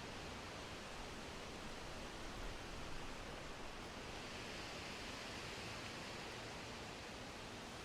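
Steady wind, an even hiss with gentle swells a few seconds in and no distinct gusts or clicks.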